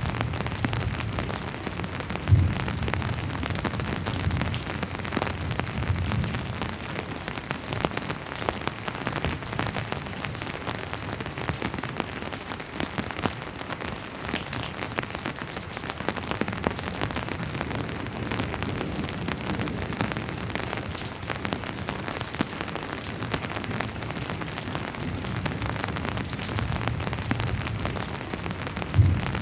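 Steady rain falling on a surface, with the patter of individual drops. A low rumble of distant thunder comes in the first few seconds and again near the end. Two sharp knocks, about two seconds in and just before the end, are the loudest sounds.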